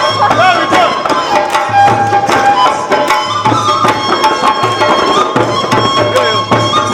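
Devotional Shyam bhajan music: a tabla-style hand drum keeps a steady beat under held melody notes, with sharp percussion strikes throughout.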